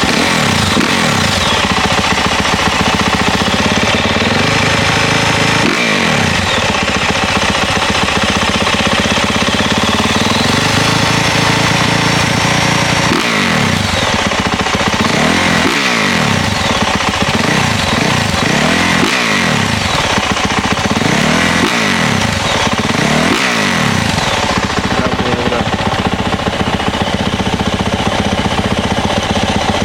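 450cc single-cylinder four-stroke dirt bike engine running after a fresh start, idling with a string of quick throttle blips, each a short rise and fall in pitch, coming close together in the second half.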